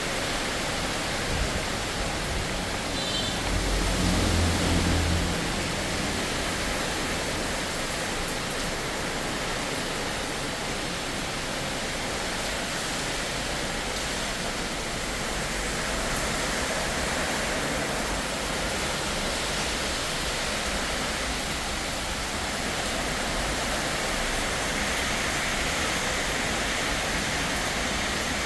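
Heavy rain pouring down in a dense, steady hiss. About four seconds in, a brief low rumble swells over it and fades.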